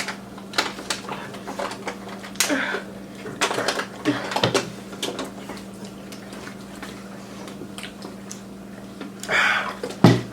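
Ramen noodles being eaten: slurping and chewing, with utensils clicking and scraping on a bowl in short, scattered bits, over a steady low hum.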